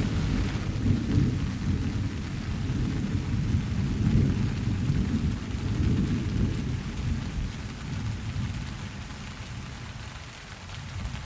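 Thunder rumbling low and rolling over steady rain, the rumble dying away over the last few seconds.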